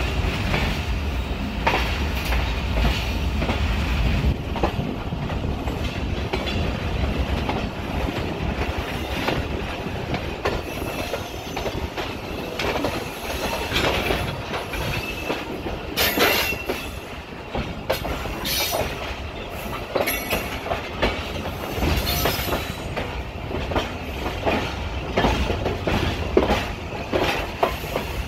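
A passenger train's wheels running over the track, heard from on board through an open window. The wheels clatter over rail joints and points, with a run of sharper metallic strikes and squeals about halfway through.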